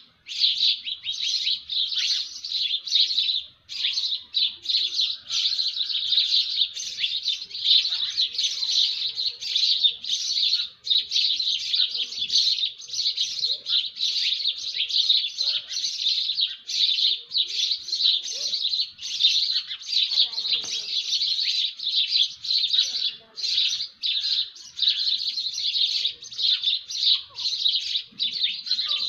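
Birds chirping in a dense, unbroken stream of quick, high chirps that overlap one another.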